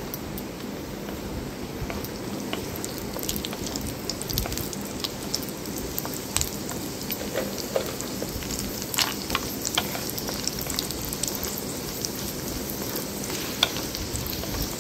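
Cashew nuts frying in hot oil in a kadai: a steady sizzle with scattered crackles and pops, and a spatula stirring them.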